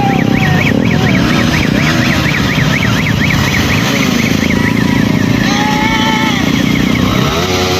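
Motorcycles running on the move during a group ride, with a steady engine and road noise. A high warbling tone, rising and falling about four times a second, sounds over it until about halfway through.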